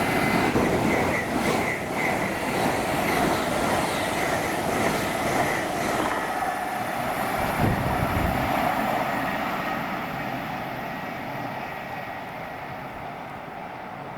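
Train running past on the main line with a steady rushing rumble, fading away over the last few seconds as it recedes.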